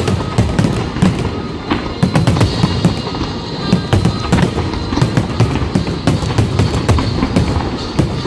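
Fireworks going off in rapid succession: many sharp bangs and crackles over continuous low booms, with music playing along.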